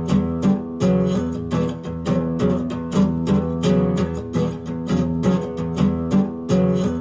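Instrumental opening of a song: acoustic guitar strummed in a steady rhythm, with no voice.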